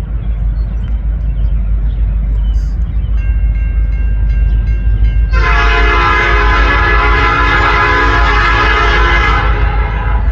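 Locomotive five-chime Nathan Airchime P5 air horn sounding. It comes in softly about three seconds in, then gives one long, loud blast of about four seconds, over a steady low rumble.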